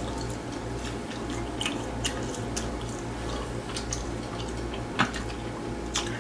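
Close-up mouth sounds of someone chewing grilled chicken: scattered wet clicks and smacks, the sharpest about five and six seconds in, over a steady low hum.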